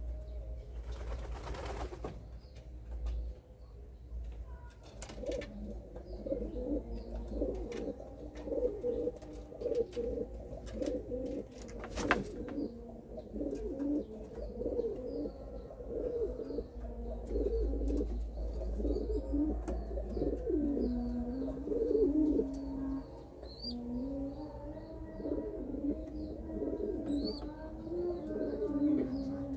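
Domestic pigeons cooing, with repeated low, wavering coos running on from about five seconds in and faint high chirps behind them.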